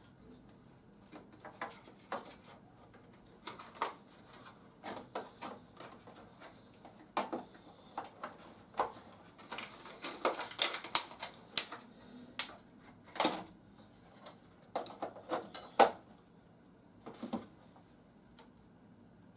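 Irregular sharp plastic clicks and clacks of a toy helicopter's battery compartment being handled as AA batteries are fitted, thickest about halfway through and again near three-quarters of the way.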